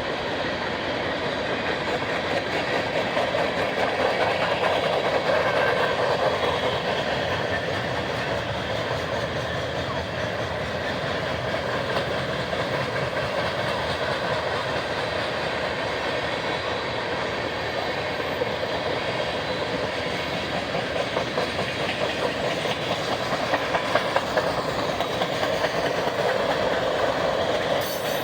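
Freight train cars rolling past, a steady rush of steel wheels on rail with fine rapid clicking and a few sharper clacks near the end.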